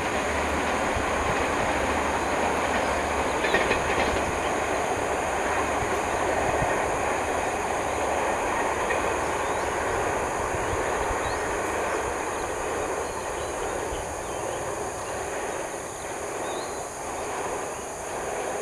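Passenger train rolling past on the track, its wheels running steadily along the rails, then fading away over the last several seconds as it moves off.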